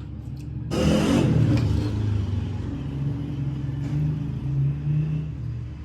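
A power tool's motor switched on about a second in and running steadily, with a loud hiss as it starts, likely during rust removal on the machine's metal parts.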